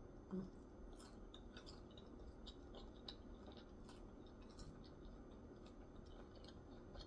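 Faint close-miked chewing of a deep-fried lobster tempura sushi roll: many small crisp crunches and mouth clicks, several a second, with a brief low thump about half a second in.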